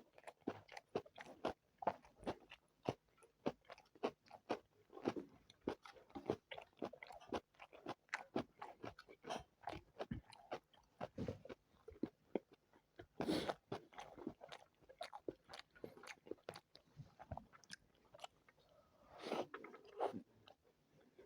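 Close-miked eating: steady chewing and biting of spicy chicken biryani and chicken legs, with rapid wet mouth clicks and crunches, and two louder, longer mouth sounds about 13 and 19 seconds in.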